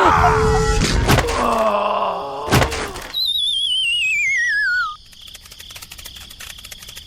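Comic sound effects: gliding tones with two sharp knocks, then a wavering whistle sliding down in pitch for about two seconds. Faint crackling follows.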